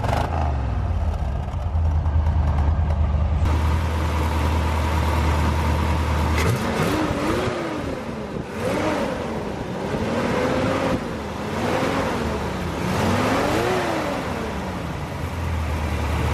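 1970 Corvette Stingray's 454 big-block V8 idling with a steady low rumble, then revved several times from about six seconds in, the pitch climbing and falling back with each blip of the throttle.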